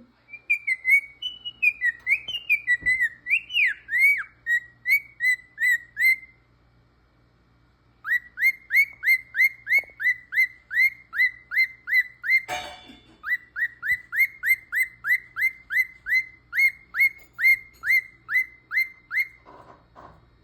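Cockatiel whistling: a run of varied rising and falling whistled notes, then, after a short pause, a long series of quick identical up-slurred whistles, about three a second. A brief harsh burst of noise cuts in about halfway through the series.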